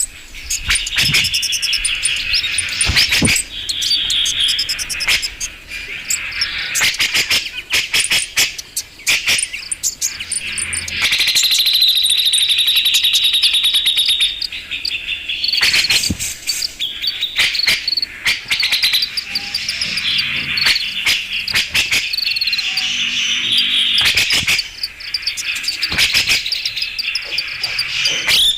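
Cucak jenggot (grey-cheeked bulbul) lure recording: dense, harsh chattering calls, with a fast buzzy trill lasting about three seconds near the middle.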